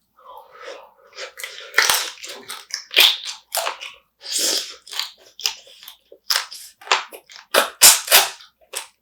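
Close-miked biting and crunchy chewing of spicy marinated raw crab, a quick irregular run of sharp cracks and crunches.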